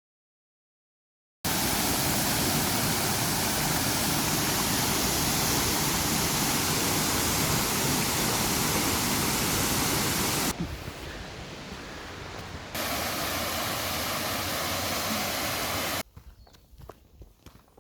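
Steady, loud rush of falling water from a waterfall. It starts abruptly after a second or so of silence, drops suddenly for a couple of seconds partway through, then returns, and changes to quieter, irregular sounds near the end.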